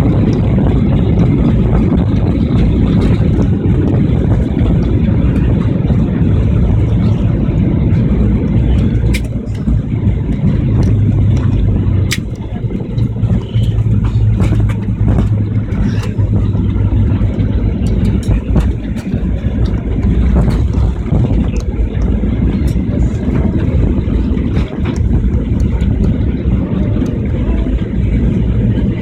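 Airliner on the landing roll: a loud, steady low rumble from the tyres on the runway, with a few sharp knocks scattered through it.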